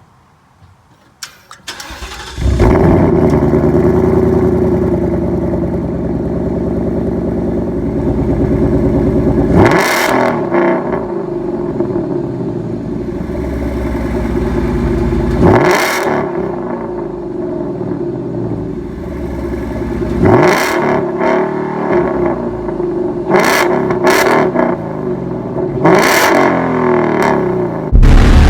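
2018 Ford Mustang GT's 5.0-litre V8 exhaust: the engine fires up about two seconds in and settles to a loud idle. It is then revved in sharp blips, one each at about ten, sixteen and twenty seconds in, and then several quicker blips near the end.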